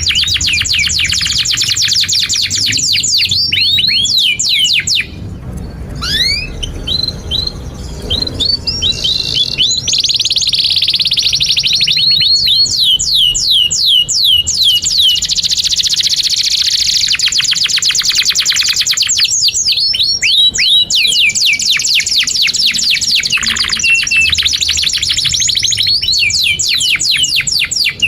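Domestic canary singing in long, very fast trills. About five seconds in the trilling breaks into a few seconds of scattered chirps and rising whistles, then the rapid trills resume and run on.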